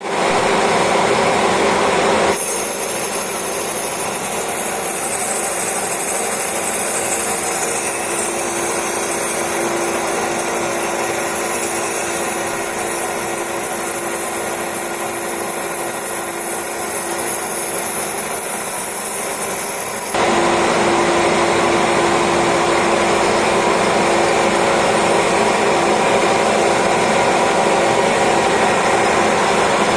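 Lathe running while turning acrylic: a steady machine noise with a few held tones. A high, thin whine joins about two seconds in and cuts off suddenly about two-thirds of the way through, while the machine keeps running.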